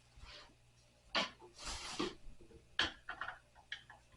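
Wooden night stand parts being handled during disassembly: two sharp knocks with a short scraping rub between them, then a few lighter clicks and taps.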